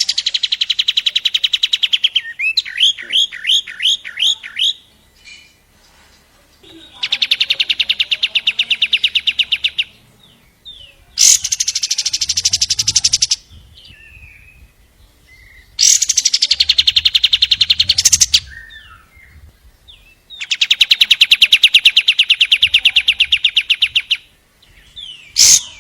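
Long-tailed shrike (cendet) singing: a run of about eight sharp chirps, then four long, rapid rattling trills of two to four seconds each, with short pauses between.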